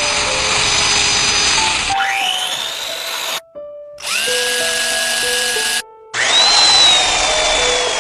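Power tools running in a series of short edited cuts, each a high whine over a hiss; one whine rises in pitch as the tool spins up about two seconds in, and another starts about six seconds in. Background music with short steady notes plays underneath.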